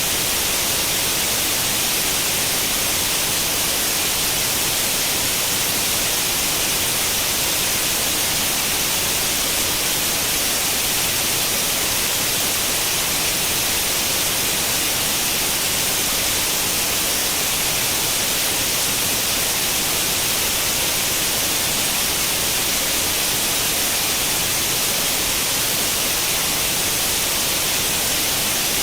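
White noise like the static of an old tube television tuned to no channel: a steady, even hiss, brightest in the high frequencies.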